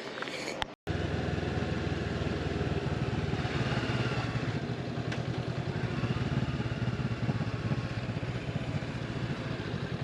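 Honda motorcycle engine running steadily with a fast even pulse, starting after a brief break just under a second in.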